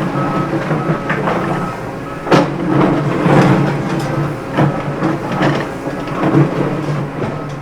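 A vehicle's reversing beeper going in short, evenly spaced high beeps over a running motor, with clattering knocks and one sharp knock about two seconds in.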